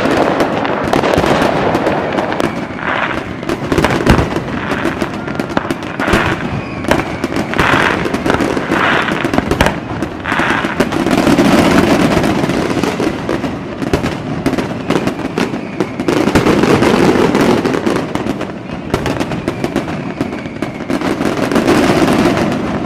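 Fireworks display: a continuous run of bangs and crackling from bursting shells, with a few faint whistles from shells going up.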